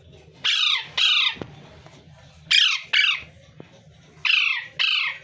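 A parrot squawking: three pairs of short, harsh calls, each falling in pitch, the pairs coming about two seconds apart.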